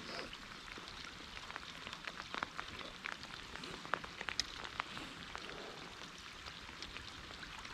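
Steady rain falling, a constant hiss with many separate drops ticking sharply as they strike nearby surfaces.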